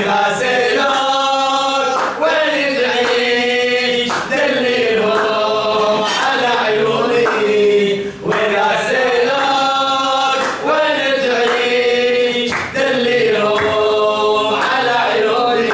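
Voices singing a long, wavering melodic line in an Arabic song, the same phrase about eight seconds long sung twice, with sharp beats about every two seconds.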